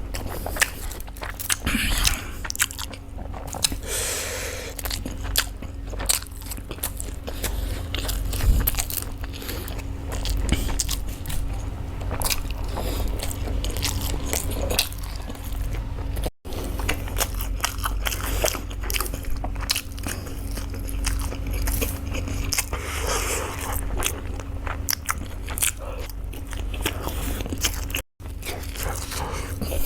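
Close-miked eating: a person biting and chewing food with crunching and many sharp mouth clicks, over a steady low hum. The sound drops out twice for an instant, about halfway through and near the end.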